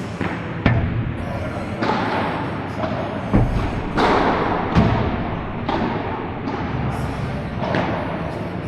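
Padel rally: a series of sharp ball hits, roughly one a second at irregular intervals, from rackets striking the ball and the ball bouncing, over steady background noise.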